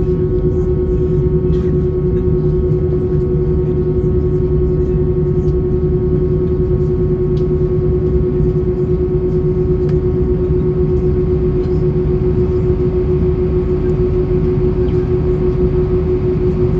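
Airbus A320-232 cabin: the steady drone of the IAE V2500 engines heard from inside, with a strong hum and fainter higher whines over a deep rumble, unchanging throughout.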